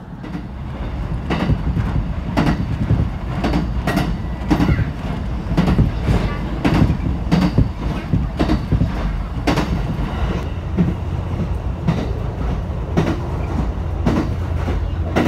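Ride in a JR West 227 series electric train under way: a steady low rumble of wheels on rail, broken by frequent sharp knocks and rattles, about one or two a second. The jolting comes from the line's old, unrenewed track, which makes the car sway quite a bit.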